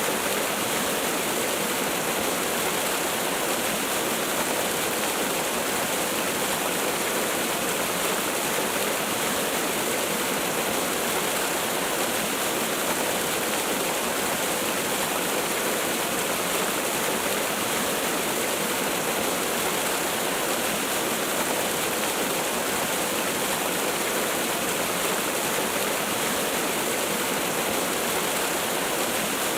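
Waterfall: water falling with a steady, even rush and no breaks.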